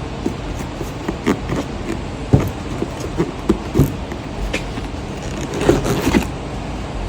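Irregular knocks and clicks of parts and tools being handled during starter replacement work, over a steady low background rumble.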